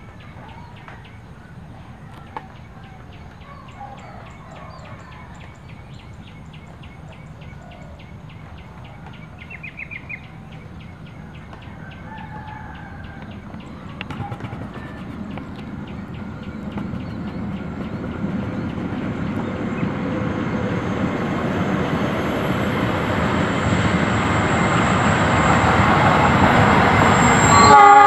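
Diesel-hauled freight train approaching along the track, its engine and wheel rumble growing steadily louder through the second half until it passes, with the horn starting to sound right at the end. Before the train nears, birds call, a rooster among them.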